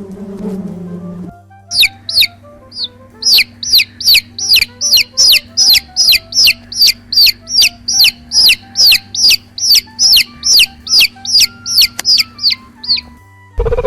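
A bird calling with a long run of loud, high chirps, each falling in pitch, about three a second, over faint background music. A low insect-like buzz stops about a second in.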